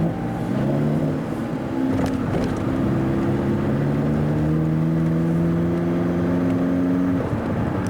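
Car engine accelerating, heard from inside the car. Its note changes about one and a half seconds in, like a gear change, then climbs slowly and steadily in pitch before dropping away about seven seconds in as the throttle eases.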